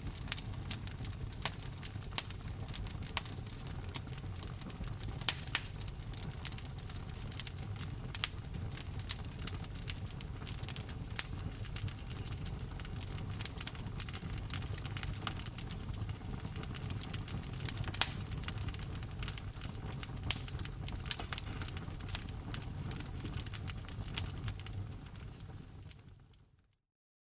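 Wood fire crackling: frequent sharp pops and snaps over a steady low rumble of burning logs. Near the end it fades out to silence.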